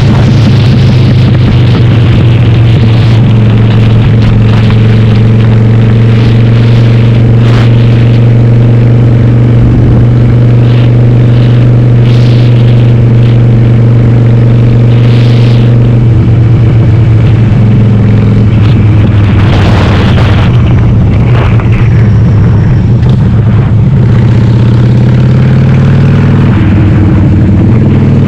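Harley-Davidson Sportster V-twin, bored to 1200, running through Cobra Speedster 909 pipes with the dB killers out, heard on board at a steady cruise. Its note drops a little about sixteen seconds in and again shortly after, then climbs as the bike accelerates near the end, with a rush of wind noise about twenty seconds in.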